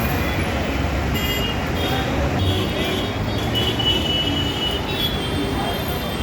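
Steady din of busy city road traffic, engines and tyres, with a few brief high-pitched tones near the middle.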